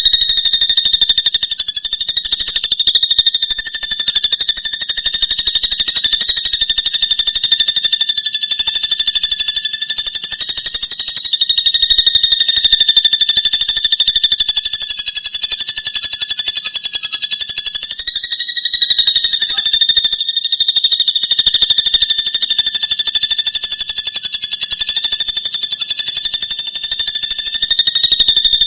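A recorded animal call played as a looped song-training track: one high, buzzing trill of very rapid pulses, held steady without a break, shifting slightly in pitch about two-thirds of the way in.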